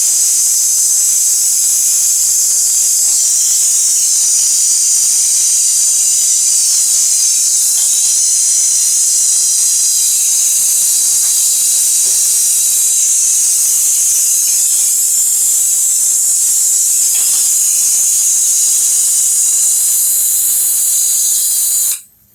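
Pressurised gas hissing steadily out of a commercial refrigerator's refrigeration lines, cutting off suddenly near the end as the flow is shut off.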